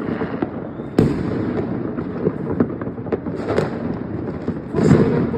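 Fireworks going off: a continuous rumble and crackle of many distant bursts, with a sharp bang about a second in and a louder cluster of bangs near the end.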